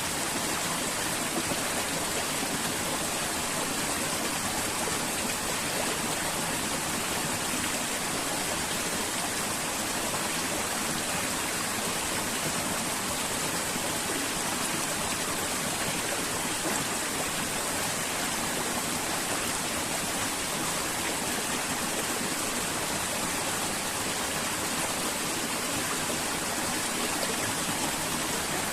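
Flowing river water making a steady, unchanging rush.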